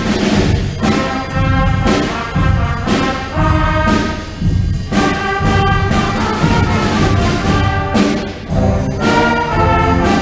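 A middle school concert band playing live: sustained brass and woodwind chords over regular percussion strikes.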